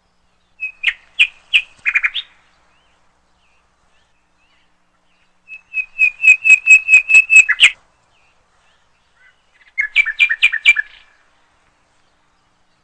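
A bird chirping in three quick runs of rapid, repeated high chirps, each run lasting one to two seconds, with silence between them.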